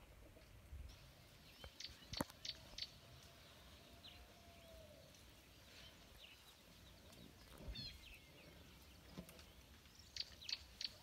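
Quiet open-air ambience with scattered short bird chirps: a small cluster about two seconds in and another near the end, plus a couple of faint clicks.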